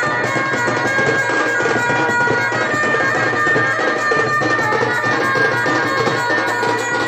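Music of a reed wind instrument playing sustained, shrill melody notes over continuous drumming.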